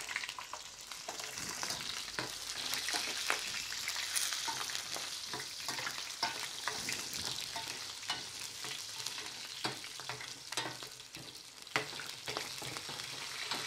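Sliced onion and garlic sizzling as they fry in an enamel pan: a steady hiss, with frequent small clicks and scrapes of a spoon stirring against the pan.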